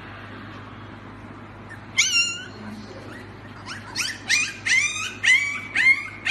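Puppy yipping: one high-pitched yip about two seconds in, then a quick run of yips, about three a second, from about four seconds on.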